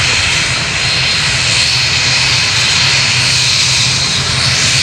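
ATR 72-600 twin turboprop's Pratt & Whitney PW127 engines running loud and steady at takeoff power as it departs, with a faint high whine near the top that strengthens in the middle and near the end.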